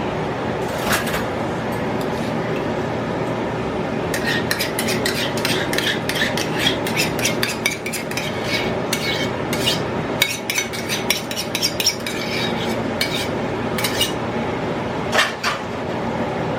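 A brown sugar and Dijon mustard mixture being stirred in a bowl with a utensil. Rapid clinks and scrapes against the bowl start about four seconds in and ease off near the end.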